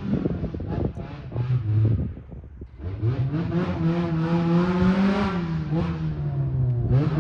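Honda CRX race car's engine revving as the car accelerates, the pitch climbing about three seconds in, holding, then easing off before rising again at the end.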